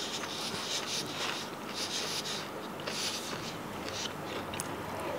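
A person chewing crunchy fried food close to the microphone, with a crackly crunch roughly once a second at an uneven pace.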